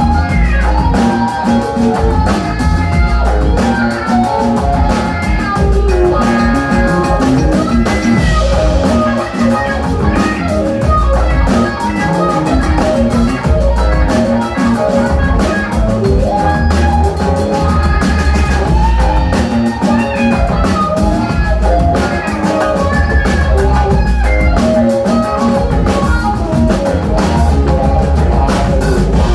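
Live band playing loud: drum kit and percussion driving a steady groove under bass and electric guitar.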